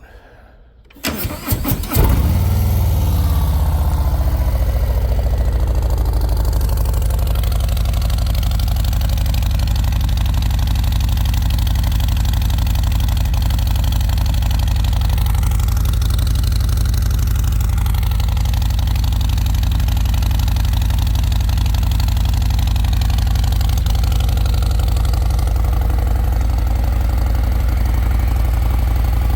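A 2025 Harley-Davidson Road Glide's Milwaukee-Eight 117 V-twin, fitted with Rhinehart DBX45 4.5" slip-on mufflers, is started for the first time. The starter cranks about a second in and the engine catches shortly after, then idles steadily through the new mufflers.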